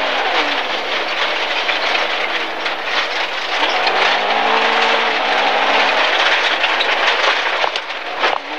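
Inside the cabin of an MG ZR rally car on gravel: its 1.4-litre engine's revs fall at first, climb again about three and a half seconds in and ease off around six seconds, over a constant hiss of gravel under the tyres and the occasional stone strike.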